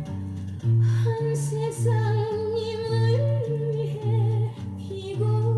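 A Korean song playing back from tape on a TEAC X-300 open-reel deck: a wavering melody line with vibrato over a regular, repeating bass-and-chord accompaniment.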